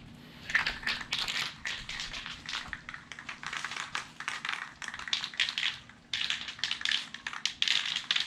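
Rapid, irregular clicking and crinkling of objects being handled, with a short pause about six seconds in.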